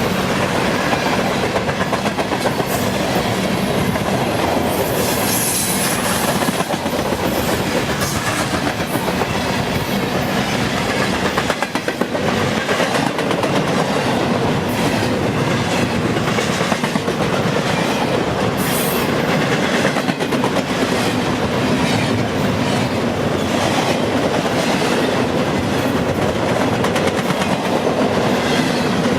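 Train cars rolling past close by, the steady rumble of wheels on rail with rapid clickety-clack over rail joints, and a brief high squeal about five seconds in.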